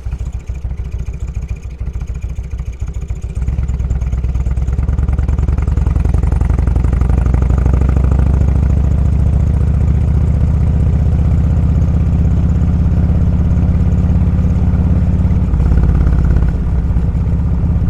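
Motorcycle engine running at low revs, then pulling away about three seconds in and running steadily and louder under load, with a brief dip in pitch and level near the end, like a gear change.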